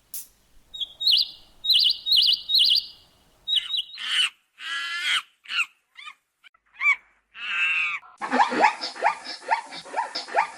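A run of short animal-call clips one after another: high chirping calls at first, then several separate pitched cries, then from about eight seconds in a fast series of repeated calls.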